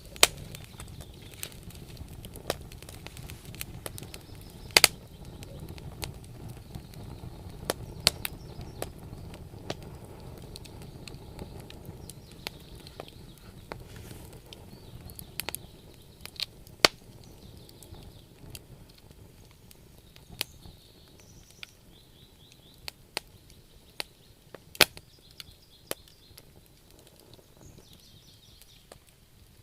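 Wood campfire crackling: irregular sharp pops and snaps, one to a few a second, over a low rumble of burning that fades somewhat through the second half.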